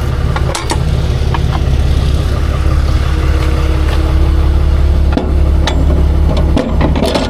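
Truck engine idling steadily, with a few short clicks and knocks over it.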